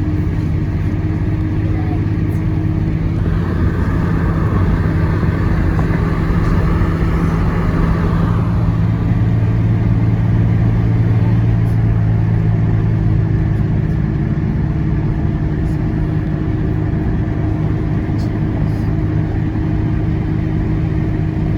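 Car driving uphill on a mountain road, a steady loud drone of engine hum and road noise.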